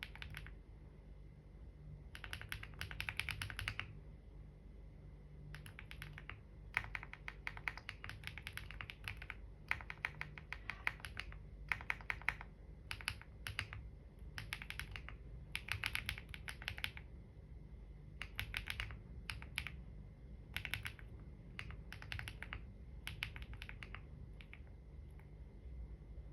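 Computer keyboard being typed on in bursts of rapid keystrokes, each flurry lasting about a second with short pauses between. A steady low hum runs underneath.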